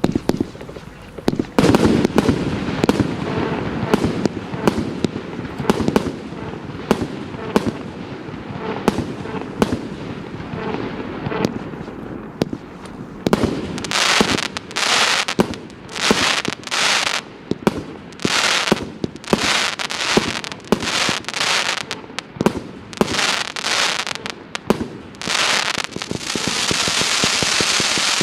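Multi-calibre fireworks battery (cake) firing: a rapid series of sharp launch shots and bangs with a low rumble, then from about halfway shells bursting in separate hissing bursts roughly once a second, merging into a dense continuous hiss near the end.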